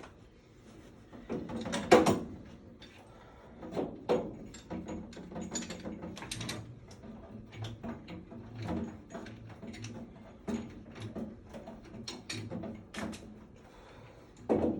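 Irregular clicks and knocks of tools and parts being handled during a furnace installation, the loudest knock about two seconds in.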